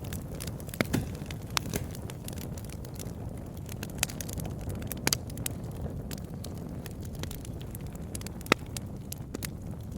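Campfire burning: a steady low rush with scattered sharp crackles and pops of burning wood, the loudest pop near the end.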